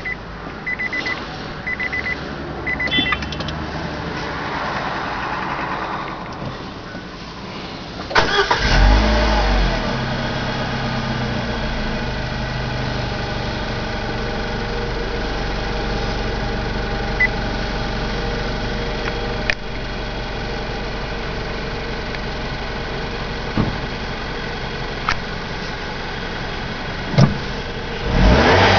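Four short electronic chimes, then about eight seconds in a Nissan Serena C26's four-cylinder petrol engine cranks briefly and catches with a flare of revs before settling to a steady idle. Near the end the revs rise again.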